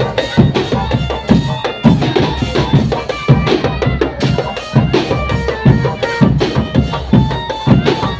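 Marching drum band playing: bass and snare drums beating a fast, steady rhythm, with a pitched melody line of held notes on top.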